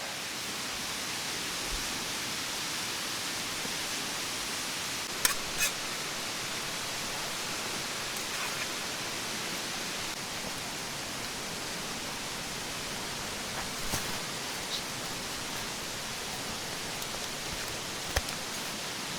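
Mountain stream water rushing steadily, with a few sharp clicks or light knocks, twice close together about five seconds in and again near the end.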